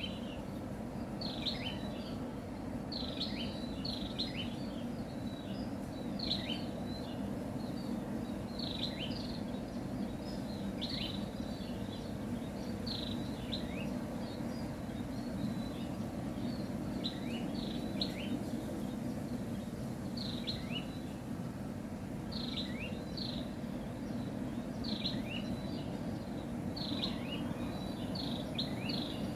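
A songbird calling over and over with short, sharp chirps that drop in pitch, in little clusters every second or two, over a steady low background hum of noise.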